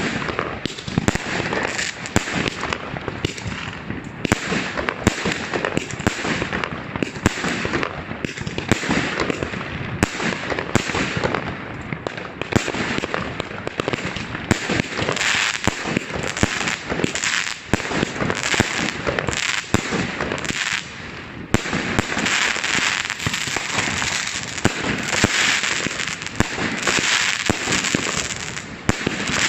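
Many New Year fireworks and firecrackers going off at once, in a dense, unbroken run of rapid bangs and crackling, with a brief lull about two-thirds of the way through.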